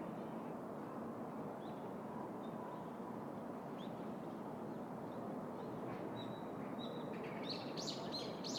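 Small birds chirping now and then over a steady city background hum, with a quick run of chirps near the end.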